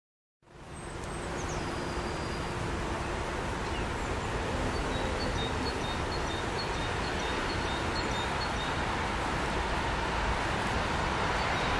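Distant electric-hauled passenger train approaching along the line: a steady rumbling rush that slowly grows louder, with birds chirping faintly.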